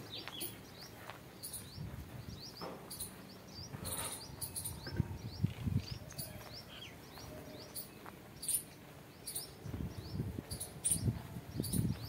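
Small birds chirping over and over in quick short rising notes, with a few sharp clicks and soft low thumps toward the end.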